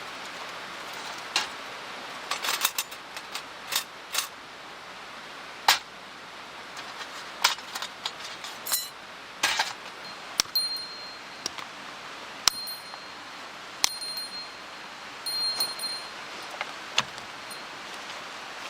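Wood fire crackling, with irregular sharp pops over a steady hiss. From about halfway, a high bell-like metallic ringing sounds in several short stretches.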